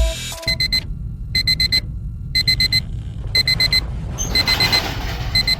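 Electronic alarm clock beeping in quick groups of four short high beeps, a group about once a second.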